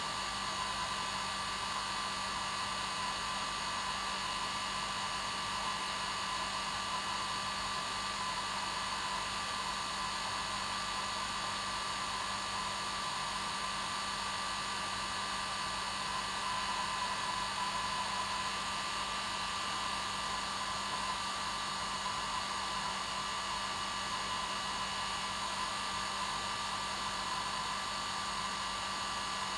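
Hair dryer running steadily: an even whooshing rush of air with a motor hum, unchanging throughout.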